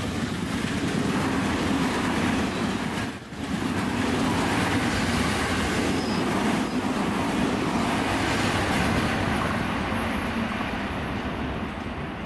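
Tokyo Metro 10000 series electric trains running past: a steady rumble and rush of wheels on rail. There is a brief drop a little over three seconds in, where one passing train gives way to the next.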